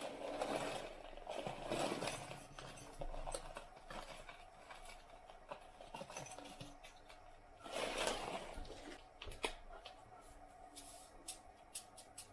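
Kitchen food-prep handling sounds: bursts of scraping and rustling, then a run of quick, light clicks near the end.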